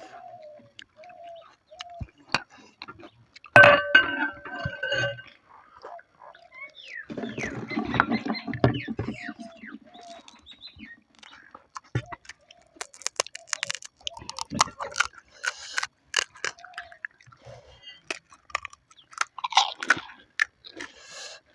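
A person biting into and chewing crisp panipuri, with many short crunches and mouth clicks and a couple of louder crunchy bursts.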